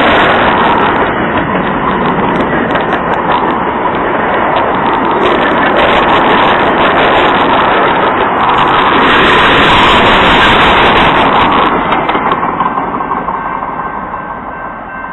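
Train rolling past at close range: a loud, steady rush of wheels on rail that starts to fade about twelve seconds in as it moves away.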